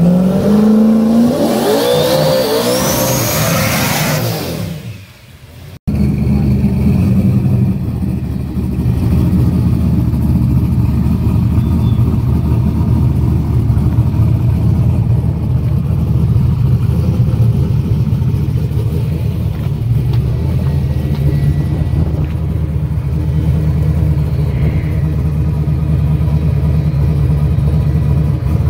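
Drag car's turbocharged LS V8 engine: about four seconds of revving that rises and falls and then fades, then a steady, loud, low idle that runs on, with the revs starting to climb again at the very end.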